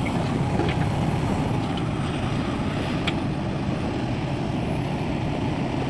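Steady engine rumble, heavy in the low end, with a faint high whine drifting slowly in pitch and a single sharp click about three seconds in.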